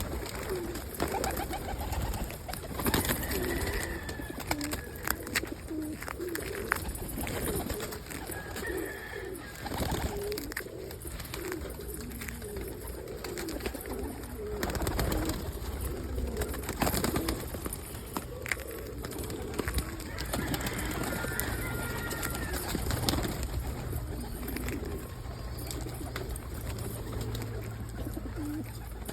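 A flock of homing pigeons cooing throughout in short low calls, with scattered sharp clicks and knocks among them.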